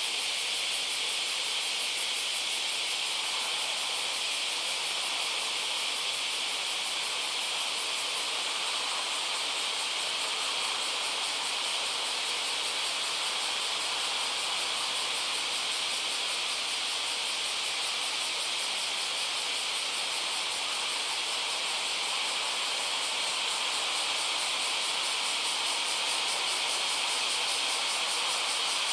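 A dense chorus of singing insects: steady, high-pitched trilling that runs on without a break.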